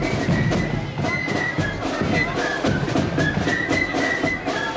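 Marching band playing: high-pitched wind instruments carry a melody over a steady drumbeat.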